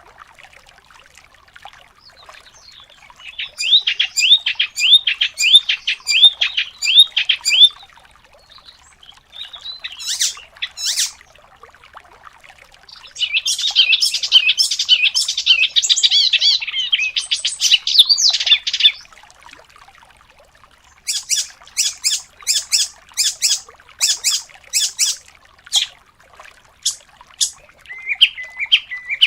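Songbirds singing in fast, high-pitched bursts separated by pauses: a run of repeated sweeping notes, then a dense rapid warble, then a string of short sharp notes.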